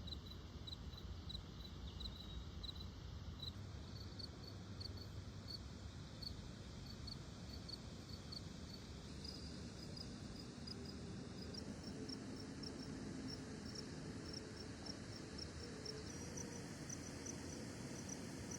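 A short high chirp, like an insect's, repeating about twice a second over a steady low rumble; the chirp's pitch steps higher a few times.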